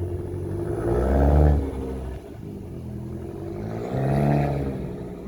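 Fiat 500 Turbo's turbocharged four-cylinder engine, on an aftermarket intake and exhaust, revved twice from idle. Its pitch rises and falls back each time, peaking about a second in and again about four seconds in.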